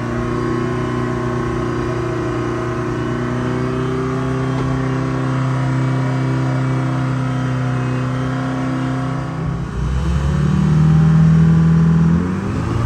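A stripped-down Dodge pickup truck's engine running steadily as the truck is driven; about ten seconds in the sound changes, dropping lower in pitch and getting louder, and it eases off just before the end.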